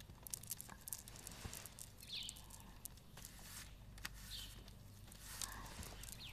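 Quiet ambience: faint rustles and small clicks, with a short high chirp every couple of seconds.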